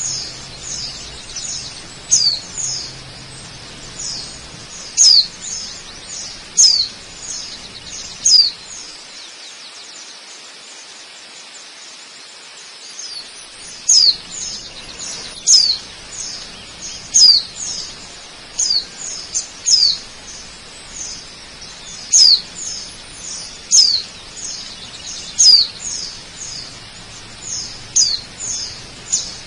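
Birds chirping, short high notes that slide downward, repeated every second or so with a lull of several seconds in the middle, over the steady hiss of a waterfall.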